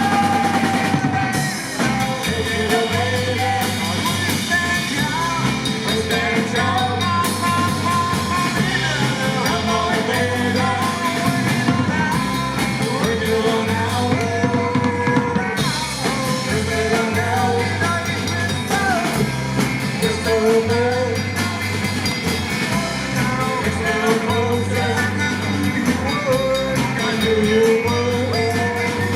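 Live rock-and-roll band playing, with drum kit and guitar keeping a steady beat under a wavering melodic lead line.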